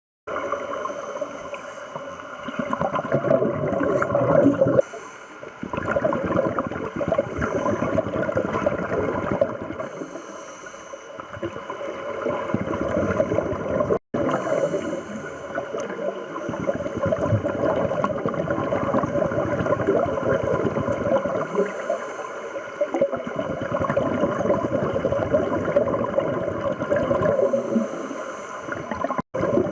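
Underwater sound of scuba divers breathing through regulators: a steady gurgle and rush of exhaled bubbles that swells and dips about every five to six seconds with each breath.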